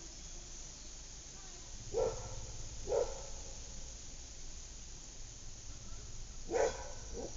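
A dog barking in a suburban neighbourhood: two single barks about a second apart, then two more close together near the end, over a steady low background rumble.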